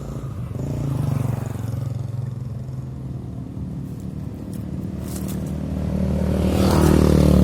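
A motor vehicle engine running and drawing nearer, growing louder toward the end.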